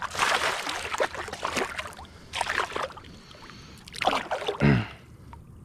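A hooked bass splashing and thrashing at the surface as it is reeled in and landed, in irregular bursts, with a brief voice-like sound near the end.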